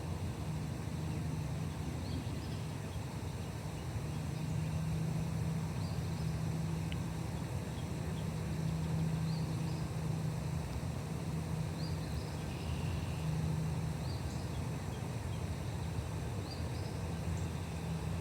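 A bird repeating a short high chirp every couple of seconds, faint over a steady low hum.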